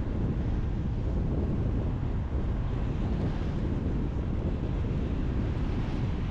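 Steady road noise from a car driving on a highway: a constant low rumble of tyres and wind with no changes.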